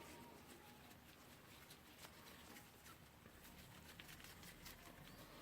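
Near silence with faint scattered clicks and scratches: a metal hook picking at the retaining ring on an impact driver's anvil.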